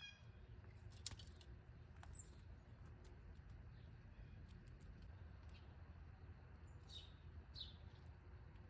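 Near-silent backyard ambience with a low steady rumble, a couple of sharp clicks early on, and two short, faint bird chirps near the end.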